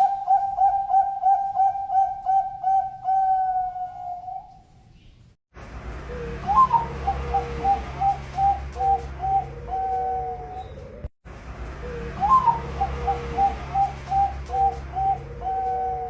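Perkutut (zebra dove) cooing: rapid runs of short, evenly spaced coos, about three a second, the first run trailing off. After a sudden break, two more bouts each open on a higher rising note before the run of coos, with a lower second voice cooing beneath.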